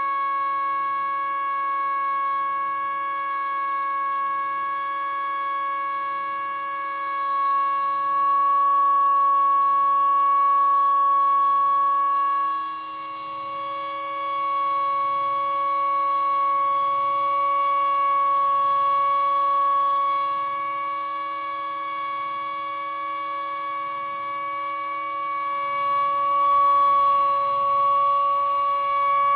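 Stepper motors of a homemade Arduino CNC machine, driven by A4988 drivers, whining with one steady pitched tone, with a faint low pulsing about once a second underneath and a brief dip in level about twelve seconds in.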